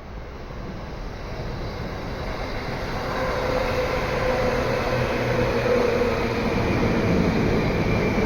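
Electric commuter train approaching and passing through the station at speed: its running noise builds over about four seconds and then stays loud, with a steady whine over the rumble.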